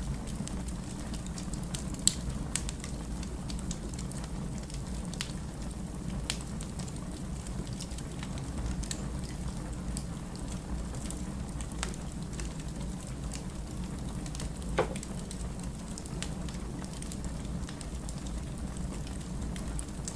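Firewood burning in a fireplace: a steady low rumble with scattered crackles and pops. The sharpest pops come about two seconds in and again near fifteen seconds.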